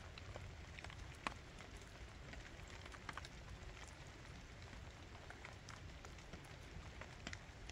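Light rain falling, with many small drops ticking irregularly.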